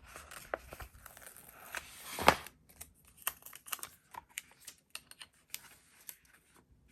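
Sticker sheets being handled: paper rustling and crinkling for the first couple of seconds, a sharp tap a little over two seconds in, then scattered light clicks and ticks.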